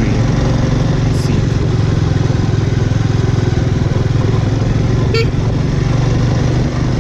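Bajaj Avenger motorcycle's single-cylinder engine running steadily while riding. A short vehicle horn beeps about five seconds in.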